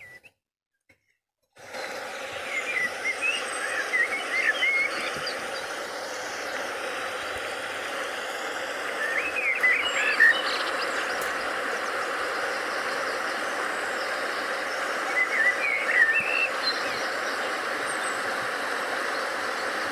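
Nature ambience: a steady hiss-like background with small birds chirping in three short flurries, about 3, 10 and 16 seconds in. It starts after about a second and a half of silence.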